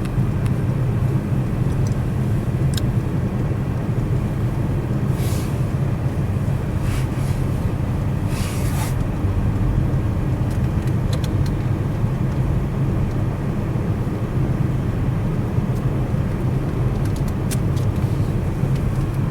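Steady road and engine drone heard inside a moving Toyota C-HR's cabin, with brief hissing swells about five and eight seconds in.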